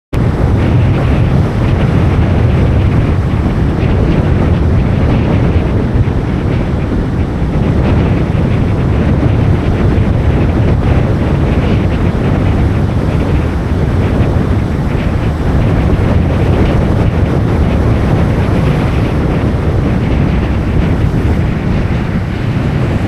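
Strong wind buffeting the microphone with a heavy low rumble, over the steady wash of surf breaking on the beach.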